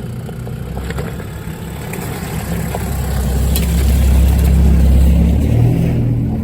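A 4x4's engine pulling along a rough off-road track. It gets louder over the first few seconds, as if working up a climb, then eases off and changes pitch near the end, with a few light knocks from the vehicle over the stones.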